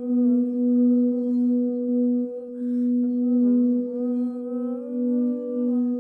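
Singing bowl sounding a sustained steady low tone whose loudness gently swells and ebbs. Fainter higher tones slide down and back up a couple of times.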